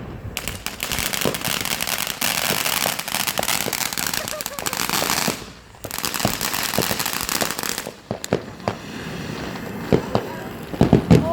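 Fireworks going off in a dense, rapid crackle for about five seconds. After a brief break the crackling resumes for a couple of seconds, then gives way to scattered separate pops near the end.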